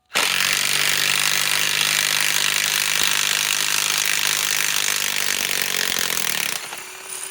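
DeWalt DCF891 cordless mid-torque impact wrench hammering steadily on a lag bolt in wood, trying to back it out. It tapers off and stops near the end without breaking the lag loose.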